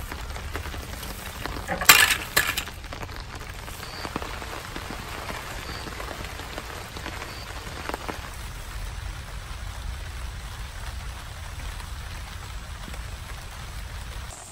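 Steady rain falling on the campsite, with a loud crackling rustle about two seconds in, from plastic being handled.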